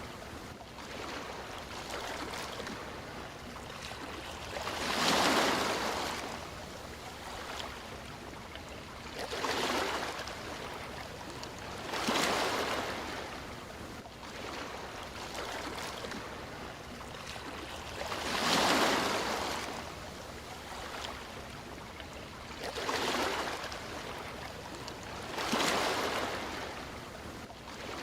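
Sea waves breaking and washing ashore: six surges of surf swell and fade at uneven intervals over a steady wash of water.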